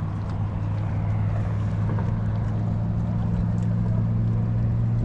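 A boat motor running with a steady low hum that grows slightly louder, with wind rumbling on the microphone.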